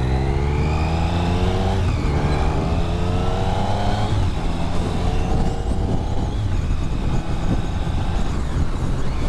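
Motorcycle engine accelerating and shifting up through the gears: the pitch climbs, drops at a shift about two seconds in, climbs again and drops at another shift about four seconds in, then runs steadier. Wind rushes over the helmet-mounted microphone throughout.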